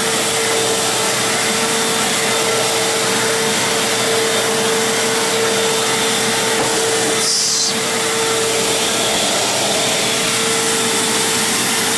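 Fantom Crosswind 200XL bagless upright vacuum cleaner running steadily on carpet, its motor holding a steady whine over the rush of air. A brief higher hiss comes about seven seconds in.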